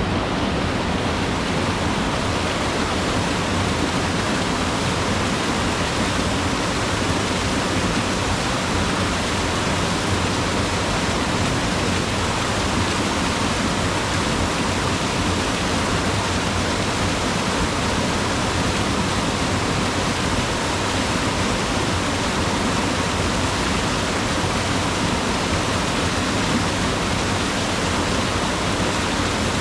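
Mountain river rushing over rocks, a steady, loud roar of water with no pauses.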